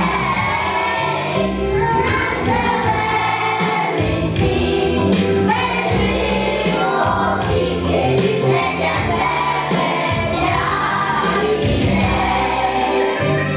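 A song sung in chorus by young children's voices over instrumental accompaniment.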